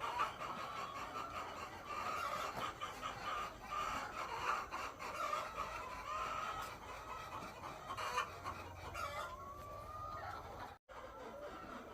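A flock of laying hens clucking and calling together, many voices overlapping. The sound cuts out for a moment near the end.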